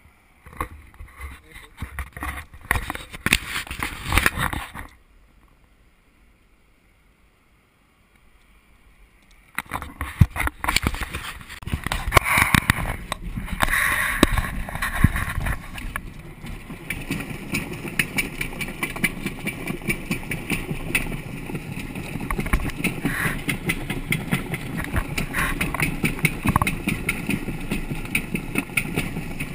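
Knocking and clattering from the camera being handled, stopping for a few seconds, then a car engine running steadily, with small clicks over it.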